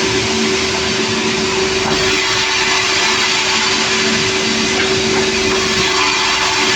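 Engine-driven sawmill saw running steadily at constant speed: an even hum under a continuous hiss.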